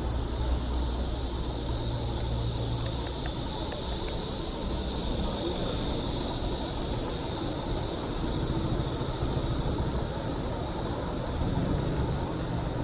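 Steady wind and road noise from riding a bicycle through city streets: a constant high hiss over a low rumble of traffic, with the rumble heavier early on and again near the end.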